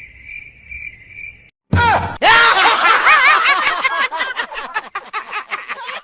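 Edited cartoon sound effects: a steady high-pitched tone, a short gap and a brief burst of noise, then a high, fast-warbling voice-like sound that keeps rising and falling.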